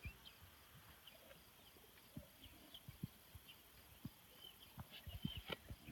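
Near silence, with faint short high chirps scattered throughout and a few soft low thumps, more of them near the end.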